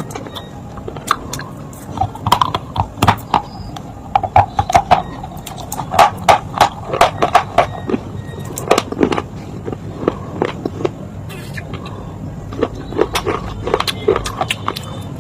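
Close-up crunching and chewing of smoked baked-clay (matka) and slate pieces in the mouth: a dense run of sharp, irregular crunches, thickest through the middle and thinning toward the end.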